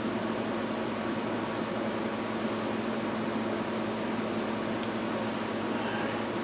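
A fan running steadily with a constant low hum.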